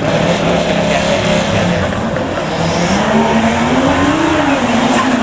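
Modified cars' engines running as they pull away. One engine's pitch climbs from about two and a half seconds in, peaks near four seconds, then eases off while other engines run steadily beneath it.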